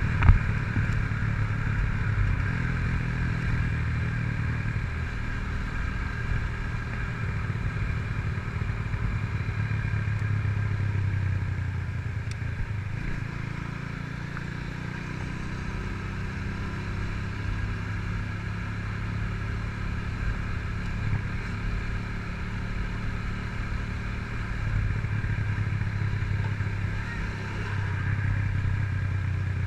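Honda CG Titan 150's carburetted single-cylinder four-stroke engine running under way through a Fortuna aftermarket exhaust. The engine note eases off a little around the middle and picks up again in the last few seconds.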